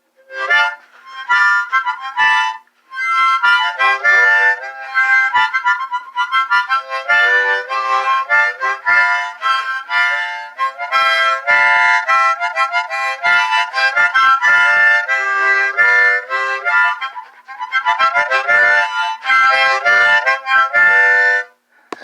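A harmonica playing a solo song intro: quick phrases of several notes at once, with short breaks between phrases.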